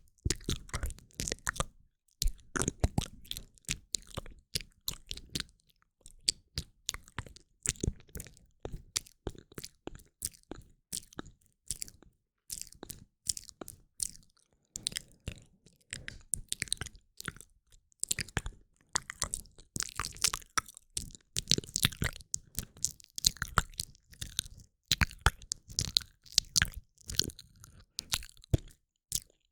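Close-up ASMR mouth sounds from a woman: rapid clicks and smacks of the lips and tongue in dense runs, broken by brief pauses.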